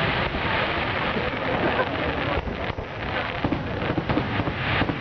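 Aerial fireworks bursting overhead: a dense, continuous run of bangs and crackling, with a short lull about two and a half seconds in.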